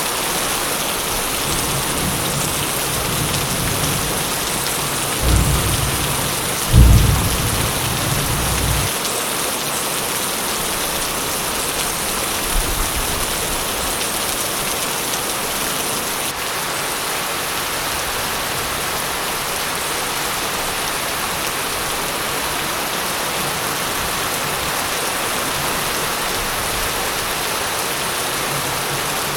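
Steady heavy rain with thunder: a low rumble builds a couple of seconds in, then two loud thunderclaps, the second the loudest, roll off over a couple of seconds, with a smaller rumble a few seconds later.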